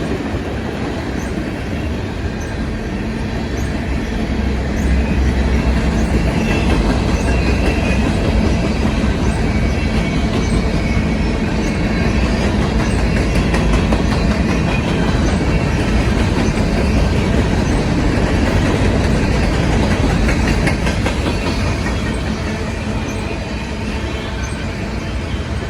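Freight train cars rolling past, wheels clicking over the rail joints with faint wheel squeal.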